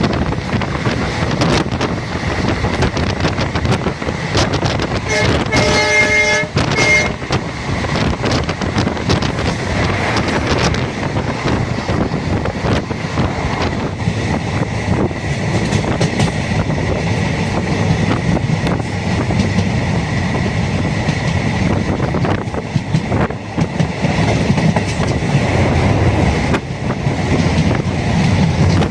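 Passenger train running, heard from on board: a steady rumble and rattle of wheels on the track. About five seconds in, a train horn sounds for roughly two seconds.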